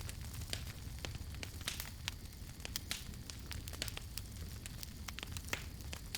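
Wood campfire burning, with irregular sharp crackles and pops several times a second over a steady low rumble of the flames.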